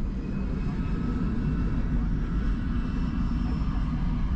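A car driving, with a steady low rumble of road and engine noise and a faint steady whine above it.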